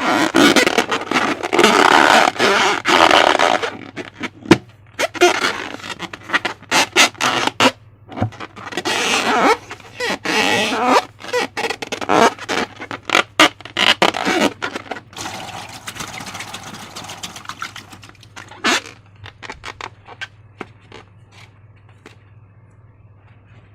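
Slime being squeezed and worked by hand: wet squelching and crackling in bursts, with many sharp clicks, growing much quieter over the last several seconds.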